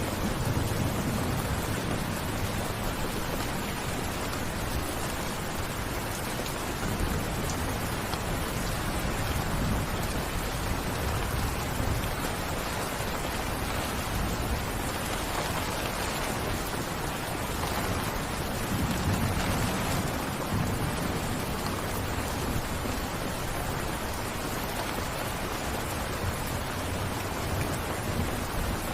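Steady rain falling, a dense even hiss, with low rumbling swells now and then.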